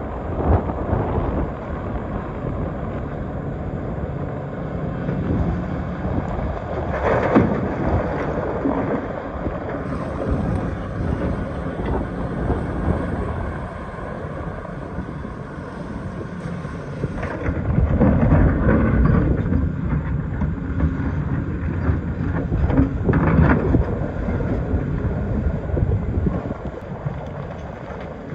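Excavator's diesel engine running while it digs rock, a steady low hum under rough noise, with louder stretches about seven seconds in and again from about eighteen to twenty-four seconds.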